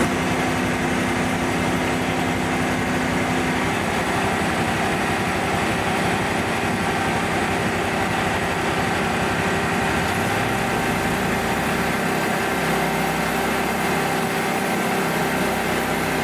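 Engine of a Frontier OS27 portable sawmill running steadily, with no change in load.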